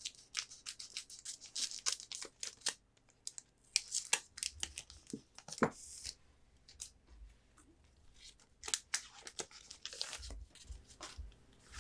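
Foil booster-pack wrappers being torn open and crinkled, with irregular crackling strokes in bunches.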